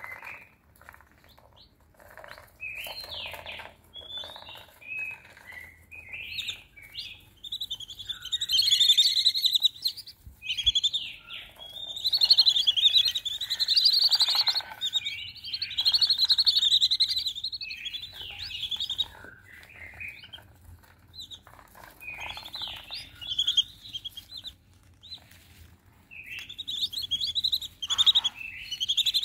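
A flock of whistling ducks giving high whistled calls in repeated bouts, louder from about eight seconds in.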